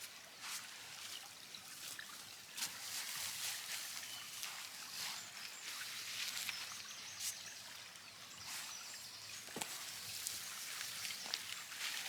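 Wood campfire crackling: a steady hiss with irregular sharp pops and snaps.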